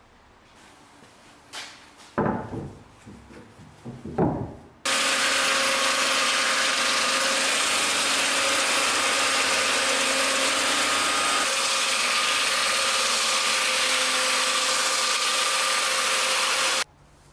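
A few knocks and scrapes of handling, then a power tool running steadily for about twelve seconds, with a steady hum under a loud abrasive hiss; it starts and stops abruptly.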